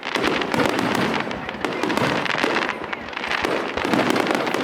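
Fireworks going off in a dense, continuous barrage of sharp bangs, many per second.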